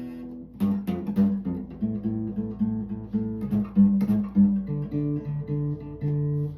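Acoustic guitar played solo, strummed and picked chords over a moving bass line, stopping abruptly near the end.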